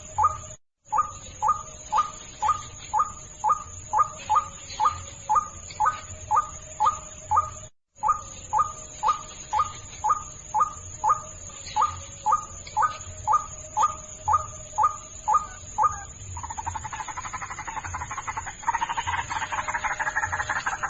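White-breasted waterhen lure call: short 'ruak' notes repeated evenly, nearly three a second, broken twice by brief total cut-outs. About three-quarters of the way in, it turns to a fast continuous croaking chatter that grows louder near the end.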